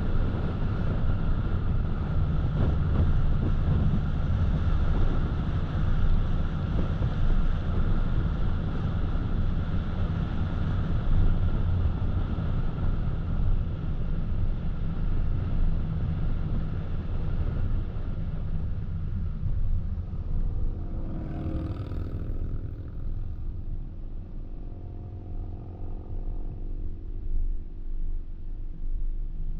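Car driving on a paved road, heard from the vehicle: a steady low rumble of tyres and engine with road hiss on top. About twenty seconds in the hiss fades away, leaving a lower hum in which a faint engine tone comes through, as at a lower road speed.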